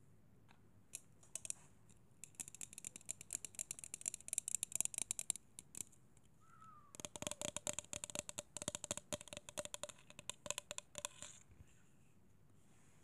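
Rapid, light clicking and tapping on a small hard object, in two runs of several seconds each with a short pause between.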